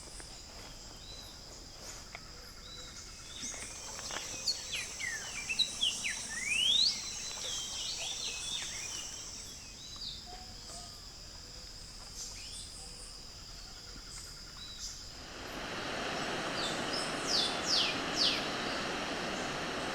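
Wild birds calling, a mix of short whistles and quick rising and falling sweeps, over a steady high-pitched hum. About fifteen seconds in, a steady rushing noise sets in, with a few sharp falling bird calls over it.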